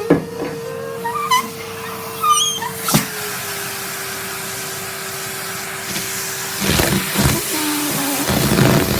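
Henry canister vacuum cleaner running with a steady motor hum that drops slightly in pitch about three seconds in, as the suction load changes. A few short, high squeaky whines come early on, and near the end there are scraping, rattling bursts as the nozzle picks up debris.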